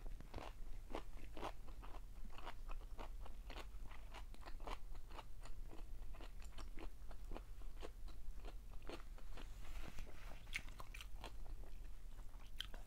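Close-up chewing of crispy fried galunggong fish: a steady run of small crisp crunches and wet mouth clicks, about two to three a second.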